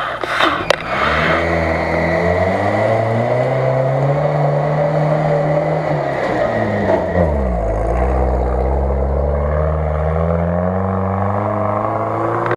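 UAZ-469 off-roader's engine revving under load on a muddy track, its pitch climbing, dipping sharply about seven seconds in, then rising steadily again. A few sharp knocks near the start.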